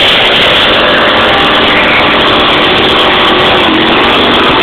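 Racing vehicle engine at full throttle, very loud and steady, its pitch dipping slightly near the end.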